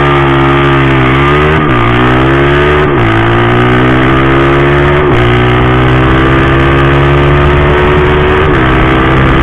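Drag-racing motorcycle engine at full throttle on a run, its pitch climbing through each gear and dropping at four quick upshifts, about one and a half, three, five and eight and a half seconds in.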